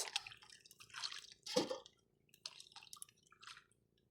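Faint, irregular drips and small splashes of water, a few soft ones scattered over a few seconds, with a slightly louder splash about one and a half seconds in.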